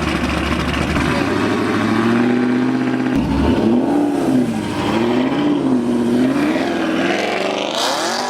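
Car engine with a big camshaft revving in place: a lumpy idle, then revs rising and falling several times, and a sharp climb to a high rev near the end that quickly drops back.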